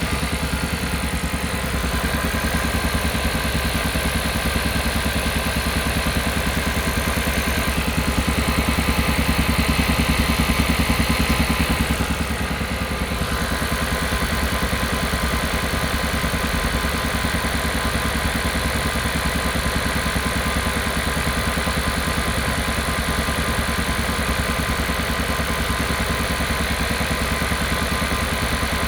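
Kia Carnival Hybrid's engine running steadily with a rapid, even pulsing, a little louder for a few seconds near the middle. This is the engine noise the owner complains of as a 'puck-puck-puck' sound.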